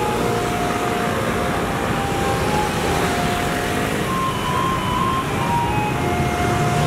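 Taiwanese garbage truck's loudspeaker playing its collection melody, single notes stepping up and down, over the steady noise of the truck's engine.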